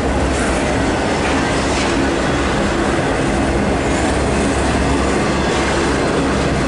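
Union Pacific double-stack intermodal train's container well cars rolling past, a loud, steady rumble and clatter of steel wheels on rail.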